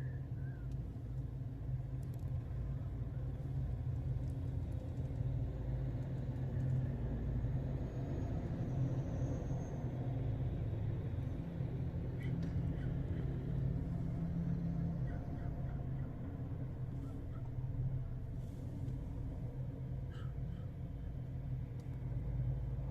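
A steady low mechanical rumble, like an engine running, holding level throughout, with a few faint short high sounds over it.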